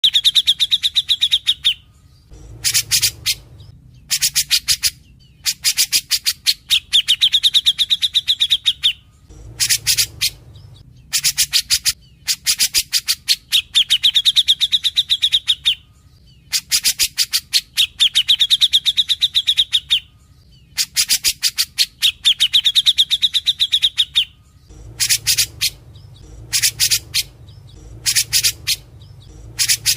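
Grey-cheeked bulbul (cucak jenggot) singing vigorously: short bursts of rapid repeated notes alternating with a long, high trill of about a second and a half, the pattern repeating every few seconds.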